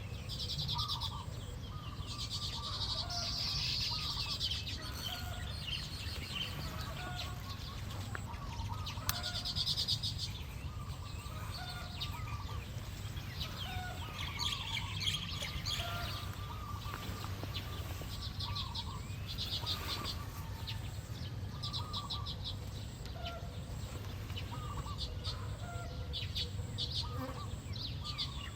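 Small birds calling around a nest: repeated short, rapid high trills every second or two, mixed with many brief lower chirps, over a steady low rumble.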